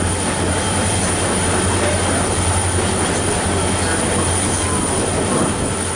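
Excursion train running through a curve: a steady rumble of wheels on rail over a constant low drone, with a few faint wheel squeals.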